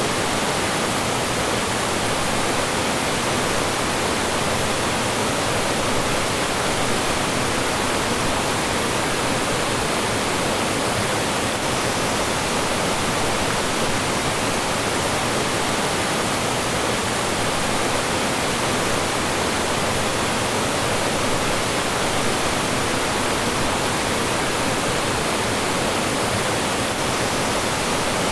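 Mountain stream rushing and splashing over rocks in a steady, full roar of water with no break.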